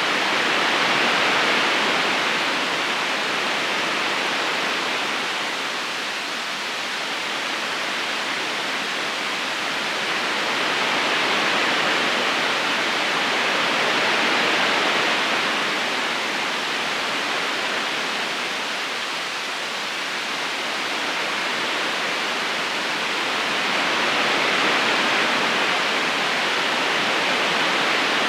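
River current rushing steadily over stones, an even wash of water that swells and eases slowly every ten seconds or so.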